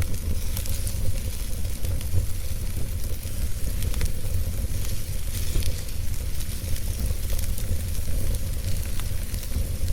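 Wood fire burning: a steady hiss with scattered small crackles and pops, over a constant low rumble.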